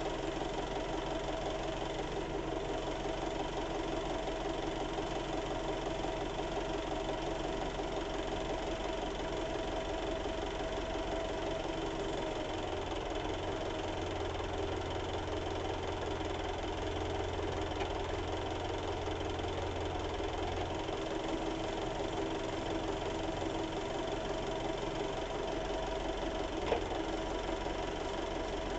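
An engine idling steadily, with a deeper hum joining in from about twelve seconds to about twenty-one seconds in, and a single sharp click near the end.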